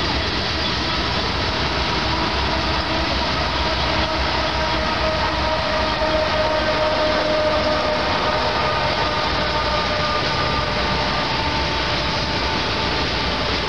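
Long Union Pacific freight train rolling past: a steady rumble of freight cars on the rails and bridge, with a steady whine that is loudest about halfway through as a pair of mid-train diesel locomotives goes by.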